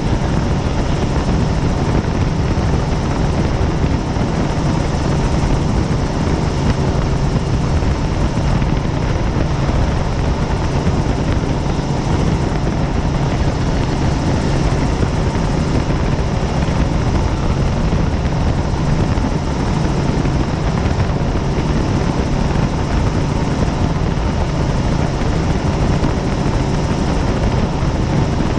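Helicopter in cruising flight: steady, loud rotor and turbine noise with a constant low hum, unchanging throughout.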